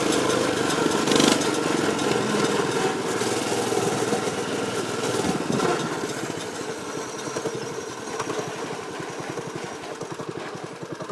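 Baja MB200 mini bike's 196 cc single-cylinder four-stroke engine running under throttle, then easing off about halfway through to a slower, lumpier beat of separate firing pulses.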